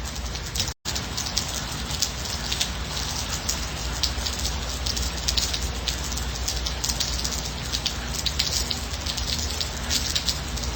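Steady rain falling, with many individual drops heard as quick ticks over an even hiss. The sound cuts out completely for an instant a little under a second in, then resumes.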